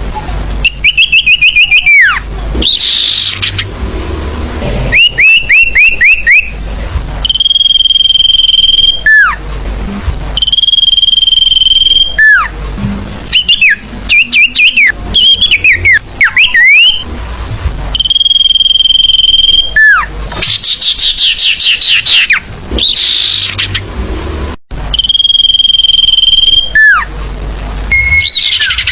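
Sirfu bird song played as a lure (pikat) call: a long, steady, high whistle that drops sharply at its end, alternating with runs of quick falling chirps and twittering notes. The pattern repeats about every six seconds over a low background hum.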